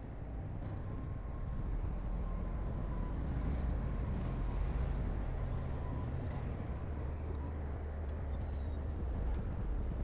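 Heavy construction machine's diesel engine running under load with a steady low drone, growing louder over the first couple of seconds and then holding, with a few light clicks near the end.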